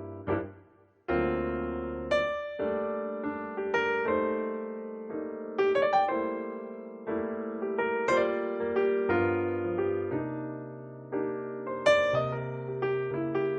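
Background piano music: gentle chords and a melody of struck notes, with a short gap about a second in before the playing resumes.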